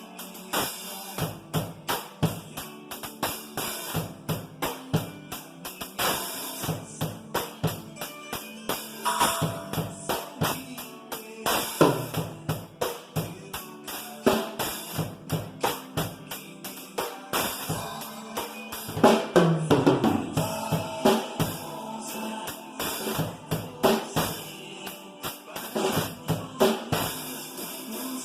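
Acoustic drum kit played along to a recorded song: a steady rock beat of kick, snare, hi-hat and cymbals over the backing track.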